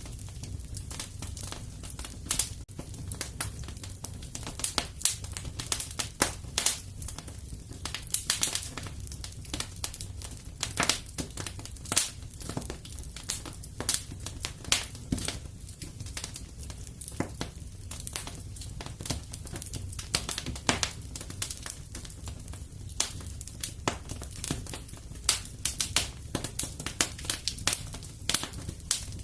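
Fire in a fireplace crackling: many sharp, irregular pops and snaps over a steady low rumble.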